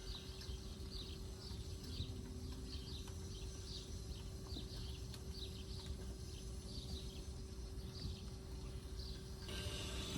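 A small bird calling in short, high, repeated chirps, about two a second, over a low outdoor rumble and a faint steady hum. The chirps stop shortly before the end.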